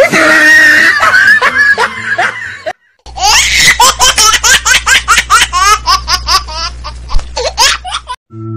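High-pitched laughter, likely a laughing sound effect, in two stretches split by a brief silence about three seconds in. The second stretch is a fast run of short rising laughs, several a second.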